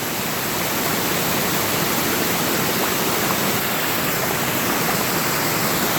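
Jungle waterfall and stream water rushing steadily.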